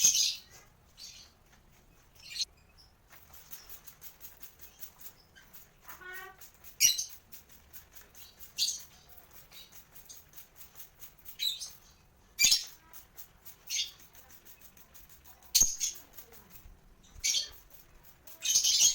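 A lovebird being bathed: about a dozen short hissing bursts of water spray every second or two, with the bird's wings fluttering between them and one brief chirp about six seconds in.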